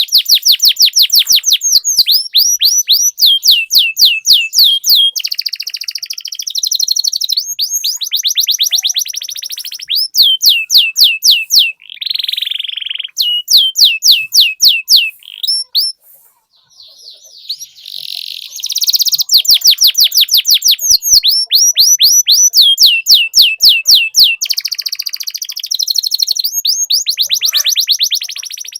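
Domestic canary singing a long rolling song: fast runs of falling whistled notes, several a second, alternating with buzzy trills, with a short pause about halfway through.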